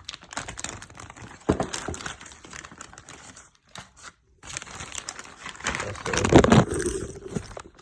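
Packaging crinkling and rustling in irregular bursts as parts are dug out of a box, with a short pause midway and the loudest crinkling about six seconds in.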